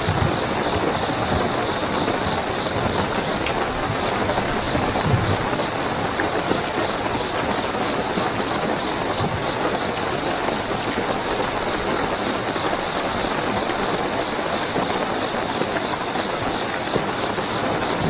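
Steady heavy rainfall, with a continuous high-pitched cricket trill running through it.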